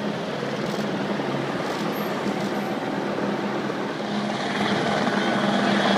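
A helicopter's engine and rotor running steadily, getting louder from about four and a half seconds in.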